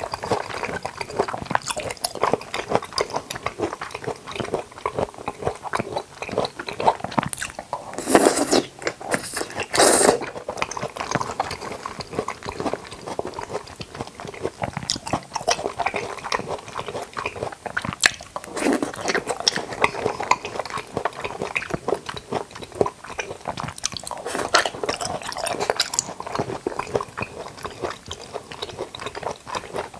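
Close-miked chewing and biting of jackfruit and toddy palm fruit, with crunching bites and wet mouth sounds. The loudest bites come about 8 and 10 seconds in.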